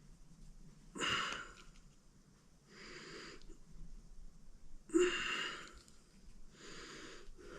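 A man breathing hard through strained effort, with a loud breath about every two seconds; the two sharpest come about a second in and about five seconds in. He is pushing a stubborn seal into a hydraulic lift cylinder by hand.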